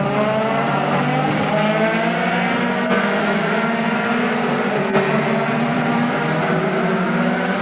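Several Dallara F312 Formula 3 race car engines running together, their pitches climbing slowly as they accelerate. There are two short sharp clicks, about three and five seconds in.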